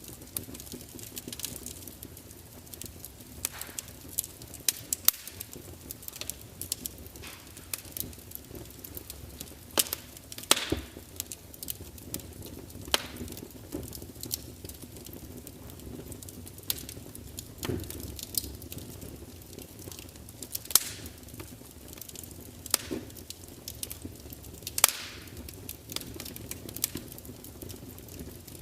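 Wood logs burning in a large fireplace, crackling and spitting: irregular sharp pops, a handful of them much louder, over a low steady rush of flame.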